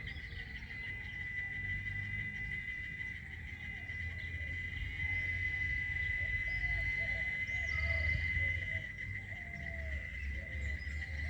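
Cicadas in a tree singing a steady, high continuous drone, over a low rumble. Short chirping calls come in from about halfway through.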